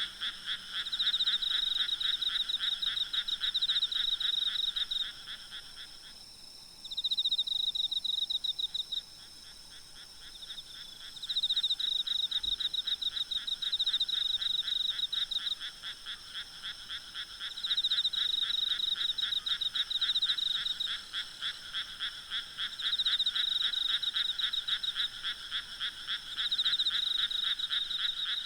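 A chorus of frogs calling at night: fast trains of pulsed croaks that swell and fade in waves of a few seconds, thinning out for a few seconds about a quarter of the way through. A faint steady high drone of insects runs underneath.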